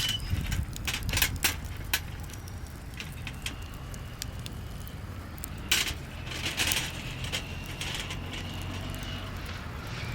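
Scattered light clicks and knocks, a few louder ones a little past the middle, over a low steady rumble.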